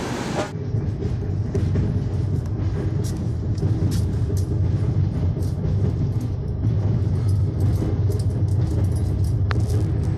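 Steady low rumble of a moving passenger train heard from inside a coach, with scattered faint clicks.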